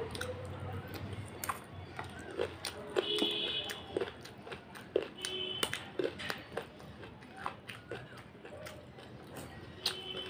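Close-miked wet chewing and mouth sounds of chicken curry and rice eaten by hand: irregular lip smacks and small clicks, with a few brief high squeaks.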